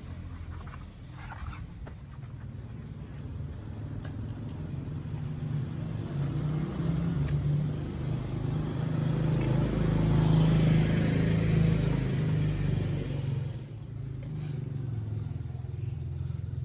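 A motor vehicle engine running with a low steady hum, growing louder to a peak about two-thirds of the way through and then fading.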